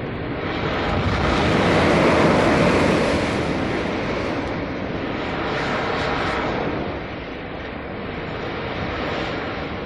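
Ocean surf: waves breaking and washing up the shore, with the loudest wave about two seconds in and a smaller one around six seconds.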